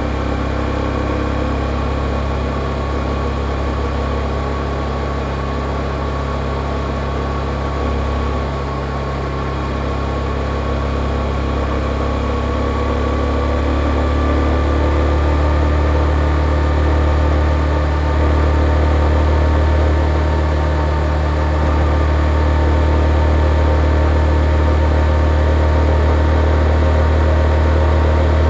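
Yamaha XSR155's single-cylinder engine with its stock exhaust, running steadily under way, its note and loudness rising a little about halfway through.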